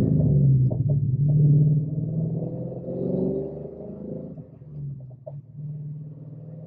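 2013 Mustang GT's 5.0 Coyote V8 running through a cat-deleted exhaust with shorty headers, an X-pipe and straight-through mufflers. It is loud for the first two seconds, then quiets and settles to a steady idle, with a few light pops along the way.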